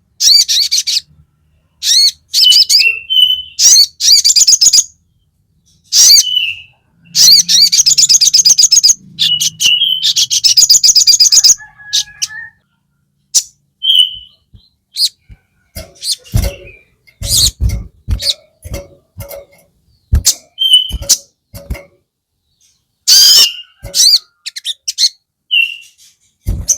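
A sogon songbird singing loudly in bouts of fast, chattering high trills broken by short whistled notes, the fired-up fighting song used as bait for other sogon. Past the middle the song thins into scattered sharp chips and clicks, with a few low thumps among them.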